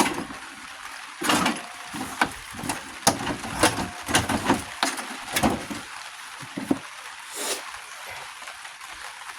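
Irregular knocks and clatters of tractor parts and tools being handled during engine work, over a steady hiss.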